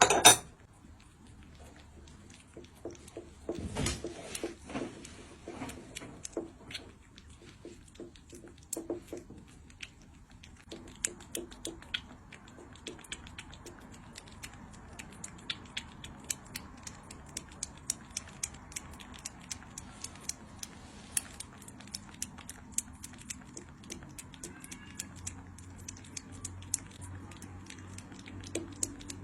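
A cat eating, its chewing and licking making many short, irregular clicks, several a second. A sharp knock opens it, and there is a louder rustle about four seconds in.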